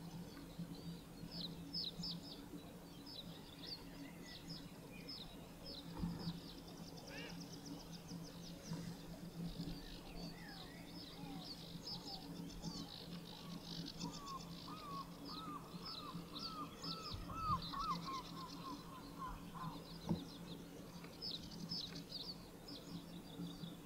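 Birds calling: a steady stream of short, high chirps, joined past the middle by a quick run of lower, looping notes lasting several seconds.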